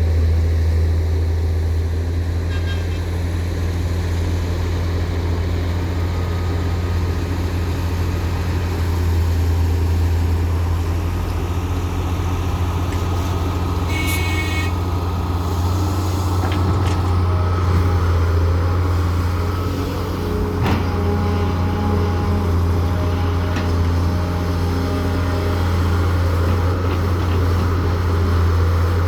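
Heavy diesel engine of earthmoving machinery running at a steady low pitch throughout, from the wheeled excavator and dump truck at work. About halfway a brief high-pitched tone sounds, and later a single sharp click.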